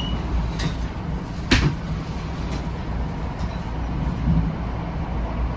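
Inside a moving NJ Transit Comet commuter rail coach: a steady low rumble of the car running on the rails, with a sharp knock about a second and a half in and a few fainter clicks and rattles.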